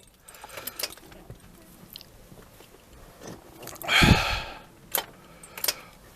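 Ford Transit 2.4 diesel's starter making one brief, weak turn about four seconds in, amid small key and switch clicks: a failed start on a battery that is flat.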